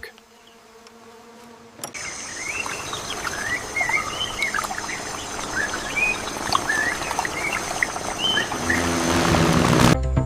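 Many short bird chirps over a steady hiss and a thin high buzz, starting about two seconds in after a faint hum. Music comes in near the end.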